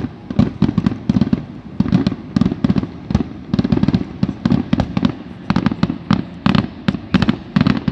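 Fireworks display: aerial shells bursting in a rapid barrage of sharp bangs, about three or four a second.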